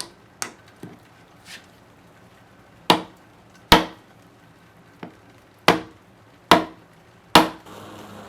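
Hammer blows driving a wooden wedge into the slit at the top of a hickory hammer handle to lock the head on: a few light taps, then five hard, sharp strikes about a second apart.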